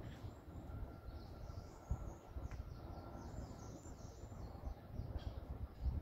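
Small birds singing in quick, high chirping phrases over an uneven low rumble, with a couple of soft knocks about two seconds in and near the end.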